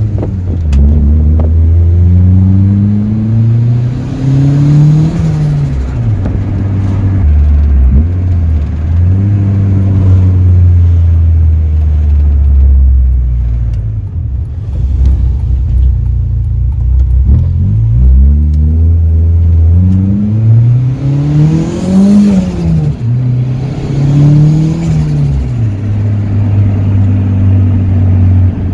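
Turbocharged Honda D16Z6 SOHC four-cylinder engine heard from inside the Civic's cabin while driving, its revs rising and falling several times as the car accelerates and eases off. The highest climb comes about 22 seconds in.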